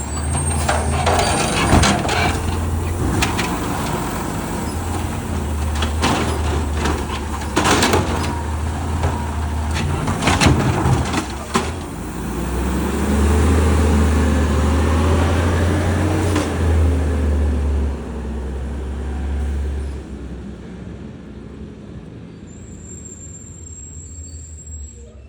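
Garbage truck engine running, with several loud clanks in the first half, then the engine note rising and falling and the sound fading as the truck pulls away.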